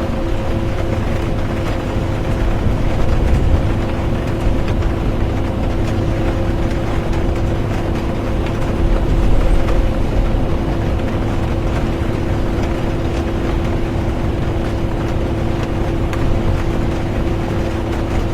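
Steady road and engine rumble inside a moving bus, with a constant hum and rain ticking faintly on the bus.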